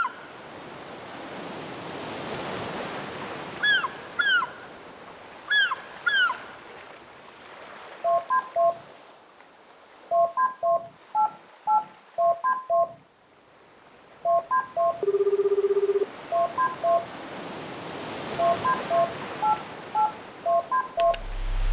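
A sound collage: ocean waves swell and fade, four quick chirps falling in pitch come in pairs, then telephone keypad tones beep in a steady rhythm for the rest of the stretch. About halfway through the beeps a single steady tone holds for about a second, and two sharp clicks come near the end.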